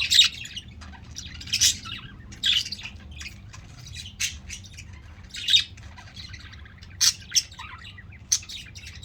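Several pet budgerigars calling in short, sharp high-pitched chirps and squawks, roughly one burst a second, with a faint steady low hum underneath.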